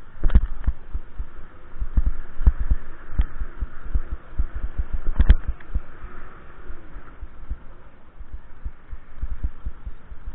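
Riding noise on a camera microphone during a bike ride: irregular deep thumps over a steady rush, with a few sharper knocks near the start and about five seconds in.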